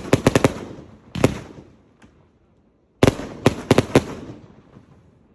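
Fireworks exploding in the sky: a quick run of sharp cracks at the start, a single bang about a second in, and a second run of cracks about three seconds in, each dying away in an echoing tail.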